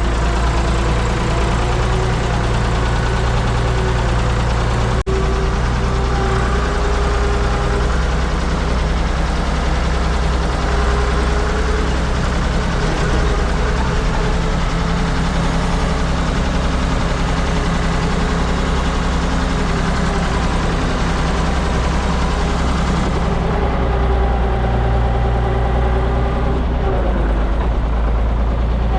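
Ford 555 backhoe loader's engine running steadily, with a brief dropout about five seconds in and a small change in engine speed near the end.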